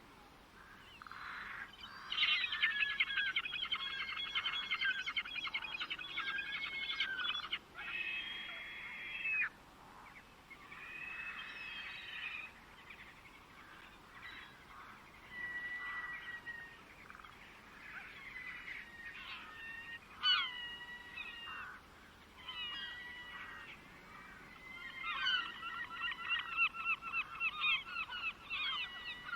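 Birds singing and calling: a long, rapid trilled phrase starts about two seconds in and lasts several seconds. Shorter chirped and whistled phrases follow, and another fast run of repeated notes comes near the end.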